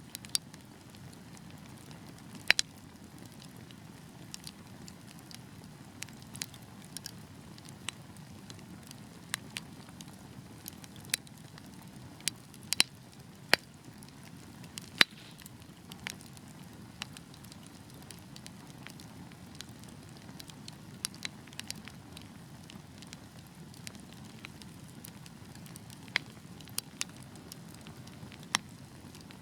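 Wood fire burning: a steady low rush of flame with irregular sharp crackles and pops from the logs, a few a second, some much louder than the rest.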